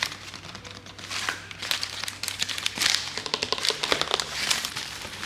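Packing material being handled and crumpled by hand while a shipping box is unpacked, in quick irregular crackles.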